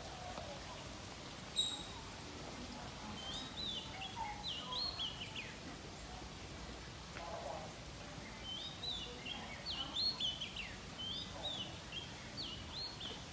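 Songbirds singing: repeated phrases of quick, high rising-and-falling notes, with a short pure whistle about a second and a half in, over a steady outdoor background hiss.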